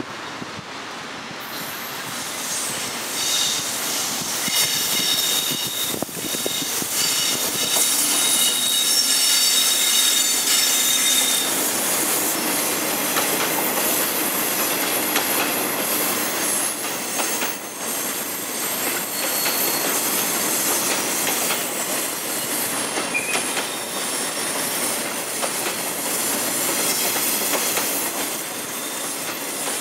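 A freight train of loaded flat wagons behind an EF65 electric locomotive rolling slowly into a station as it comes to a stop, a steady rumble of wheels on rail. High squealing from the wheels sounds over it, strongest through the first third.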